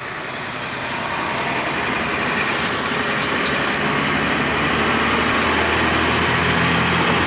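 Cummins ISC diesel engine of a 2002 Blue Bird CS 40-foot transit bus running, heard inside the cabin, growing louder over the first few seconds and settling into a steady low hum about halfway through.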